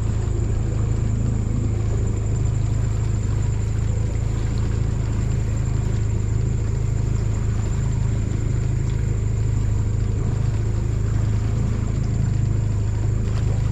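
Small boat's outboard motor running at a steady speed, a constant low hum with a thin high whine above it.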